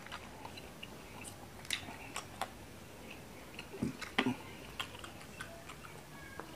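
Scattered sharp clicks and crackles of a boiled duck egg's (balot's) shell being tapped and picked off with the fingertips, with soft chewing and mouth sounds in between.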